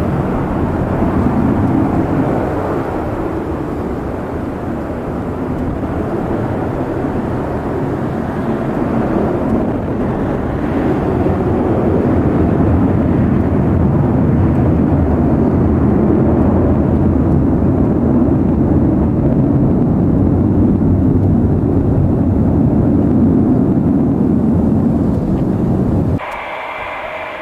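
Douglas DC-8's four Pratt & Whitney JT3D turbofans at high power, a loud, crackling jet roar that swells a little partway through. About a second before the end it cuts suddenly to a quieter, whining engine sound.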